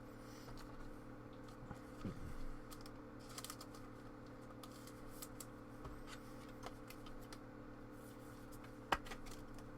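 Faint scattered clicks and flicks of trading cards being handled and slid through a pack by hand, with a sharper click near the end, over a steady low electrical hum.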